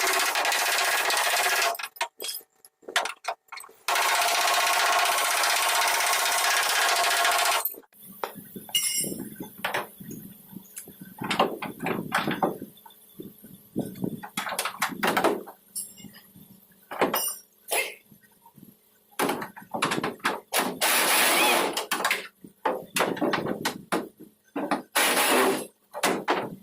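A power tool runs loudly and steadily for about two seconds, stops, then runs again for about four seconds. After it cuts off comes a long run of irregular knocks and short scraping sounds of tool work.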